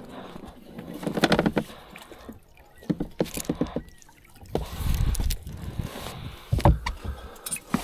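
Irregular knocks and clatter of gear being handled in a fishing boat, with low rumbling stretches near the middle.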